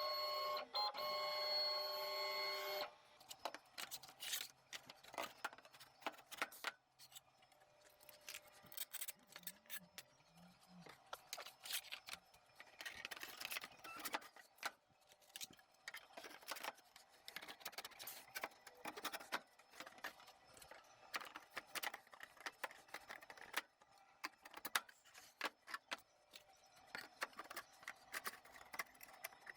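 A steady electronic-sounding tone of several pitches held for about three seconds, then cut off, followed by many scattered light clicks and knocks.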